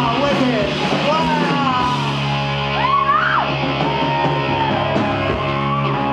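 Live rock band playing loudly, with a high gliding line rising and falling about halfway through.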